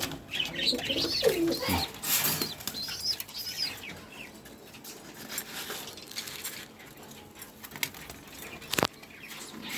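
Domestic pigeons flapping their wings and cooing, busiest in the first few seconds and quieter after, with a single sharp click near the end.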